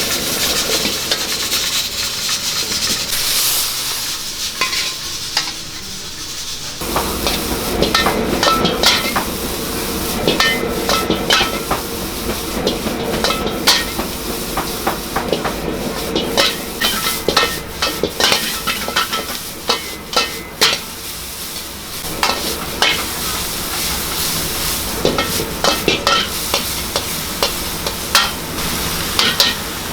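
Food sizzling and hissing in a hot wok. About seven seconds in, a metal ladle starts clanking and scraping against the wok in quick irregular strokes as the food is stir-fried, over a low steady rumble.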